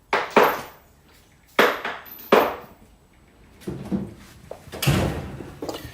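Tools knocking on metal while a motor mount is fitted back into a car's engine bay: three sharp, loud impacts in the first two and a half seconds, then a run of lighter knocks and clatter.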